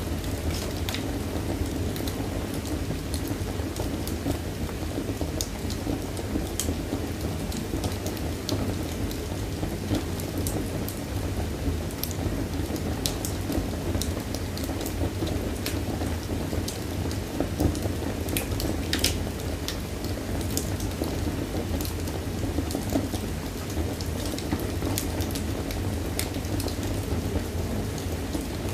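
Wood fire burning in a fireplace: a steady low sound of flames with scattered sharp crackles and pops.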